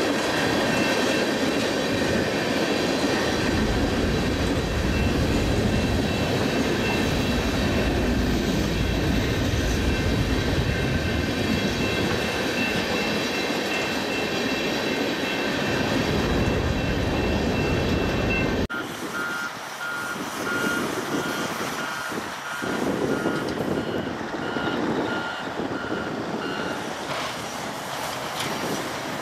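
A freight train of tank cars rolling past close by: a steady rumble of wheels on rail with thin high squealing tones above it. About two-thirds of the way through it cuts to a quieter, more distant freight train, with a string of evenly spaced high beeps.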